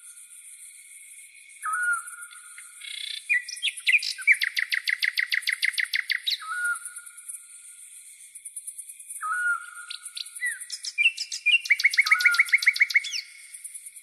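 A songbird singing at night: two phrases, each opening with a whistled note and breaking into a fast run of repeated notes. Crickets chirp throughout, a continuous high, finely pulsing trill.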